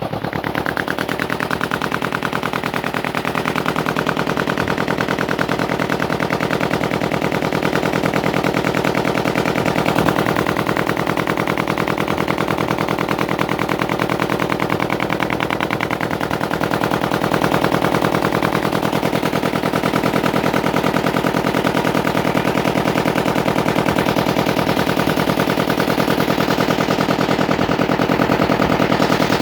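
Ferry boat's engine running steadily and loudly, a rapid, even chugging.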